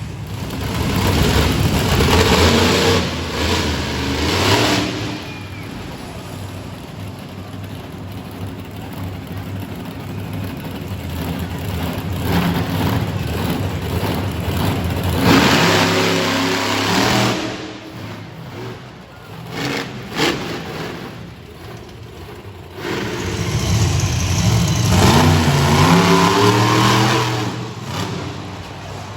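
Monster truck engines revving hard in three loud runs, about a second in, around fifteen seconds in, and from about twenty-three seconds in, each rising and falling in pitch, with a steadier lower engine sound between them.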